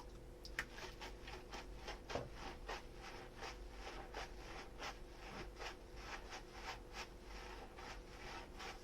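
Sponge scrubbing a dish in quick, even strokes, about three a second.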